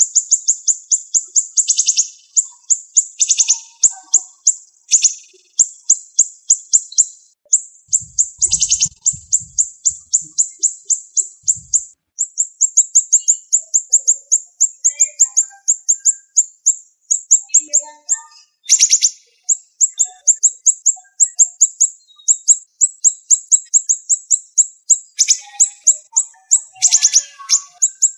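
Siri-siri songbird singing loud, rapid runs of sharp, high-pitched notes, packed closely together and repeated with only brief pauses between runs.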